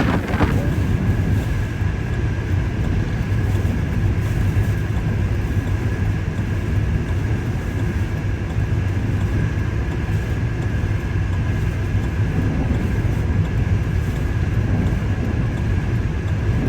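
Steady low rumble of a car driving, engine and road noise with a faint steady high whine over it.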